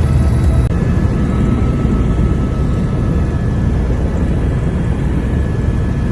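Helicopter engine and rotor noise: a steady, loud, deep drone with a few steady whining tones above it. There is a brief break about two-thirds of a second in, where the recording cuts.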